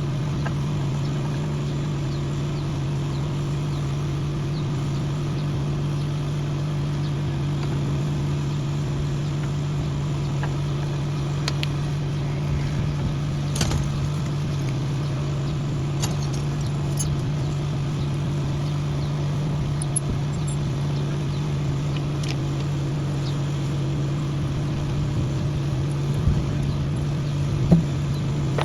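An engine running steadily at an even, unchanging pitch, with a few sharp metallic clicks and taps over it; the loudest tap comes near the end.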